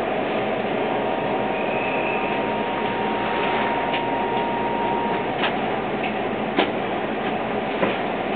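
Interior of a Kintetsu 22600 series 'Ace' electric limited express standing at a platform: the steady hiss and hum of the stopped train's onboard equipment. A thin steady tone sounds from about a second in until about five seconds, and several sharp clicks come in the second half.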